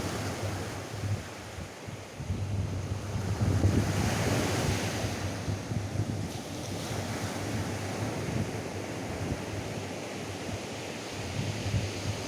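Atlantic surf washing on a sandy beach, with wind buffeting the microphone in a low rumble. A wave surges loudest about four seconds in, then eases back to a steady wash.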